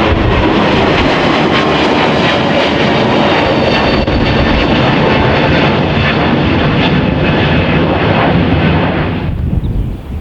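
Jet airliner engines running loud and steady, with a faint whine on top. The noise cuts off abruptly about nine seconds in.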